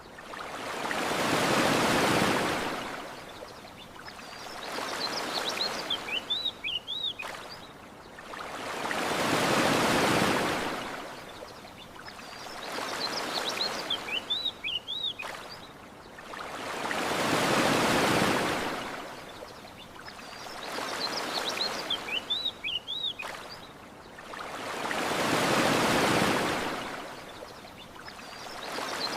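Ocean waves washing onto a shore, each surge swelling and falling away, the big ones about every eight seconds with smaller ones between. Short bird chirps come in the quieter stretches between the big surges.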